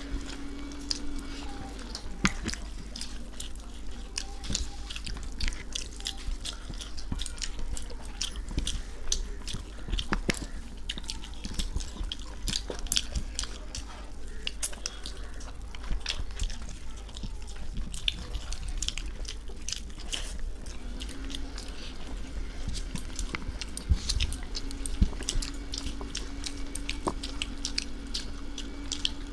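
Close-up eating sounds of chicken biryani being chewed and eaten by hand: many small wet clicks, smacks and chews, with a few louder knocks near the end. A steady low hum runs underneath.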